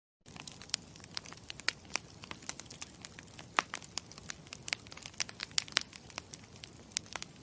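Wood campfire crackling: a steady low rumble with frequent irregular sharp pops and snaps.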